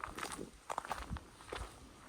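Footsteps of a person walking outdoors: a run of short, uneven steps.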